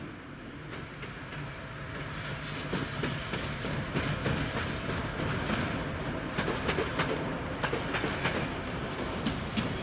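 PKP Cargo ST44 (M62-type) diesel locomotive passing at speed with a train of open freight wagons. Its engine gives a steady drone, and the wheels click over the rail joints. The clicking grows sharper and more frequent in the second half as the wagons roll by.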